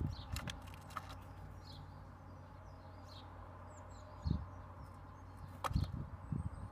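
Birds on a bird table right beside the microphone: scattered sharp taps and dull thumps from pecking and hopping, a cluster of them near the end, with a few faint, high, downward-gliding chirps from birds further off.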